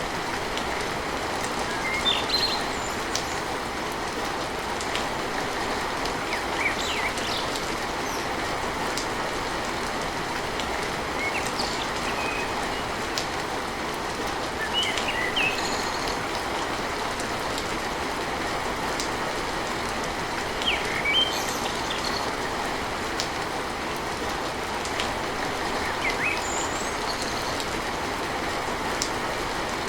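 Steady rain drumming on a tin roof, with short bird chirps now and then over the top.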